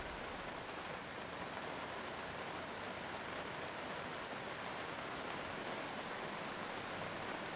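Steady rain: an even hiss of falling rain with no change in level.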